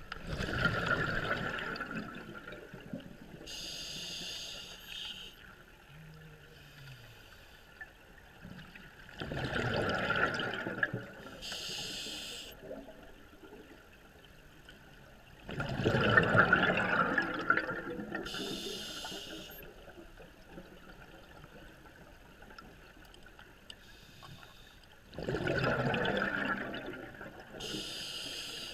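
A scuba diver breathing through an open-circuit regulator underwater: four slow breaths, each a loud rush of exhaled bubbles followed by a shorter, high hiss of inhalation through the regulator.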